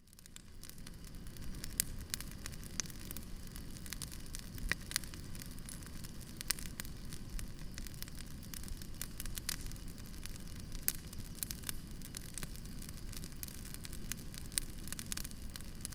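Wood campfire crackling, with frequent sharp pops and snaps over a steady low rumble of burning. The sound fades in during the first half second.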